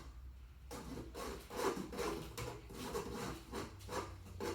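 Dry cupcake ingredients (cocoa powder, flour, salt, raising agents) being sifted through a kitchen sifter: a run of short scratchy rubbing strokes, about two a second.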